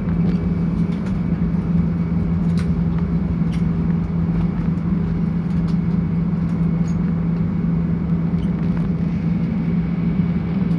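Steady in-flight cabin noise of a passenger airliner: a constant hum and rush of engines and airflow, with a few faint ticks.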